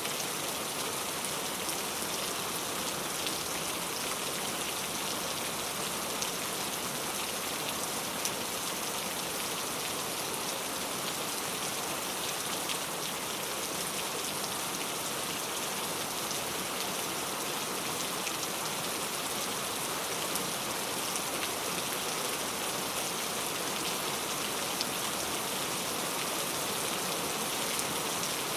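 Steady rain falling, an even hiss dotted with the fine ticks of individual drops landing on a surface.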